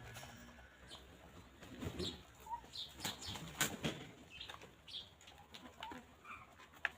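Free-range chickens pecking and scratching at grass: a loose run of short clicks and rustles, busiest midway, with short high chirps of birds scattered through.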